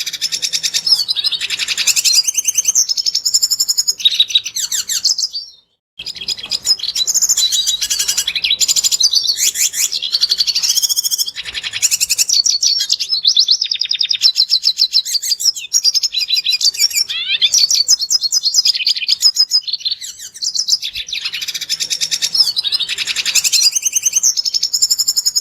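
Red siskin singing a fast, high, twittering song, almost without pause. It cuts off briefly about five and a half seconds in and then resumes.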